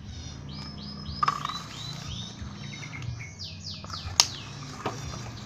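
Birds chirping in runs of quick, high, downward-sweeping notes, several a second. Two sharp clicks cut through, the louder about four seconds in.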